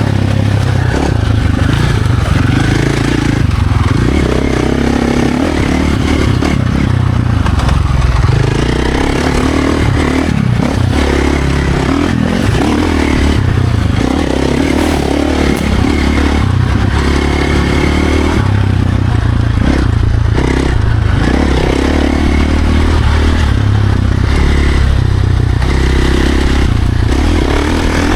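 Dirt bike engine ridden hard on a trail, the throttle opening and closing every second or two so the engine note keeps rising and dropping, with scattered knocks and rattles from the ride.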